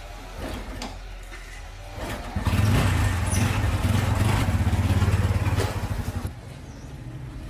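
A 110cc motorbike engine running: from about two seconds in it is much louder with a rapid pulsing beat for about four seconds, then it drops back suddenly to a quieter steady run.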